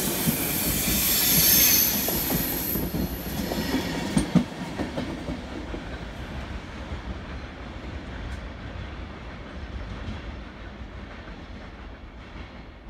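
Passenger train moving away along the track, its wheels squealing high for the first few seconds. A few sharp wheel clicks come about four seconds in, then the rumble fades steadily as the train recedes.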